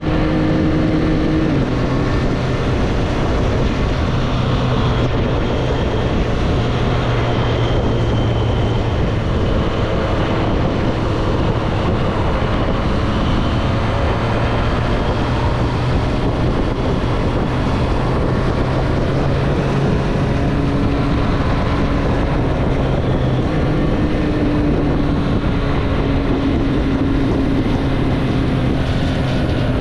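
2024 Triumph Street Triple's 765 cc inline three-cylinder engine running at a steady note, with a small change in pitch near the start and again later on. Some wind on the microphone.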